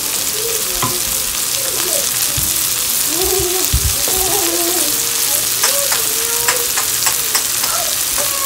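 Shrimp, onion, garlic and scallions frying in hot oil in a pot, with a steady sizzle and occasional light clicks.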